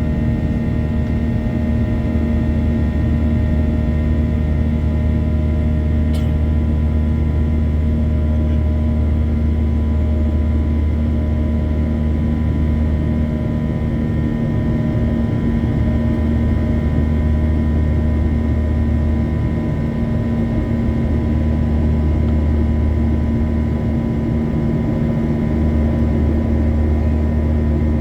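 Steady cabin noise inside a Boeing 737-800 climbing after takeoff: a loud low rumble of airflow and its CFM56-7B turbofan engines, with several steady hum tones above it.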